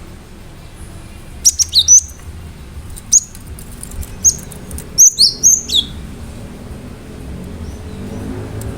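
Cinereous tit (gelatik batu) singing: sharp, high whistled notes with quick downward sweeps, delivered in several short bursts, the busiest run just past the middle.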